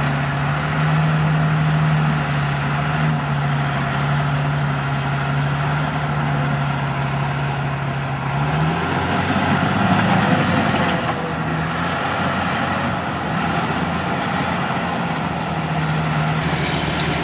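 Diesel engine of heavy earthmoving equipment running with a steady low drone; its note changes about halfway through and settles back near the end.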